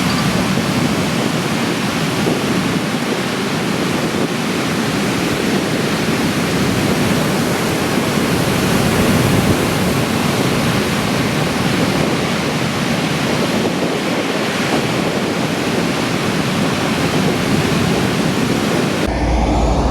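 Ocean waves breaking on the shore: a steady, loud rush of surf.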